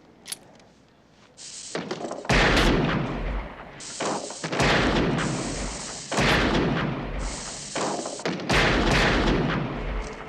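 Four loud gunshots in a film soundtrack, about two seconds apart, each ringing out for over a second before the next.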